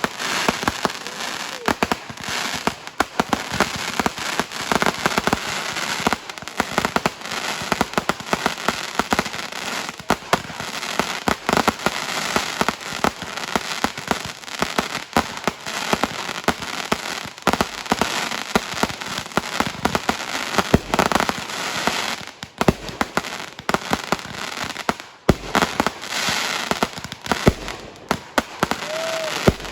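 Fireworks going off without a break: dense crackling and popping with frequent sharp bangs.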